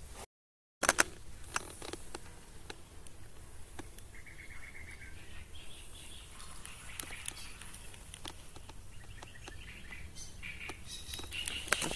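Small birds chirping and trilling in short phrases at a lakeside, with two sharp clicks about a second in.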